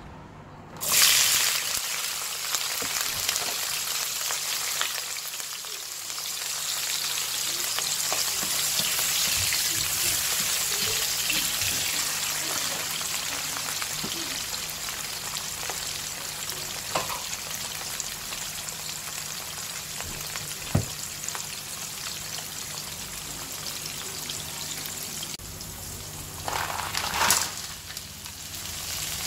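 Chopped onion sizzling in hot oil in a non-stick frying pan, starting suddenly about a second in and running on steadily as it is stirred with a slotted spatula, with a couple of sharp taps of the spatula on the pan. Near the end a fresh, louder burst of sizzling as mixed vegetables go into the pan.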